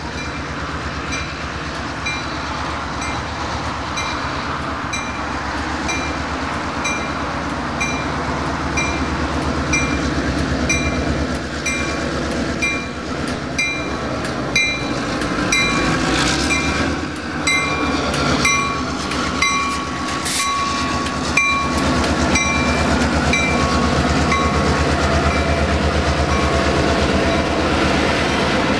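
Freight train rolling by with a steady low rumble, its wheels clicking regularly over the rail joints.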